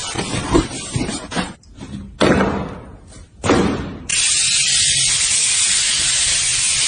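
Car wash water spray hitting the car, heard from inside the car. Uneven swishes and dips at first, then a steady loud hiss of spray sets in suddenly about four seconds in.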